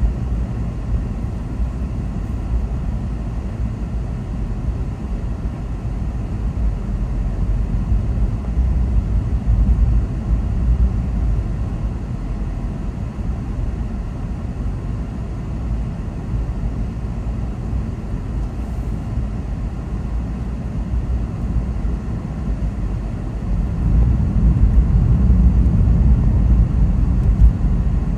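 Car driving, a steady low rumble of engine and road noise that grows louder about three-quarters of the way through.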